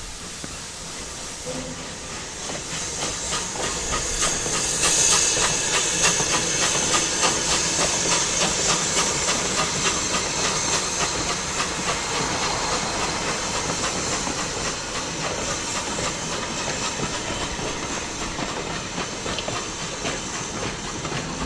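Steam train passing: hissing steam and the clicking of wheels over rail joints, building over the first few seconds and then slowly fading.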